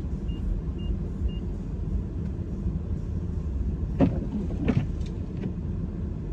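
Inside a car: steady low rumble of the engine running while it sits parked, with three short high beeps about a second in and two light knocks near the end.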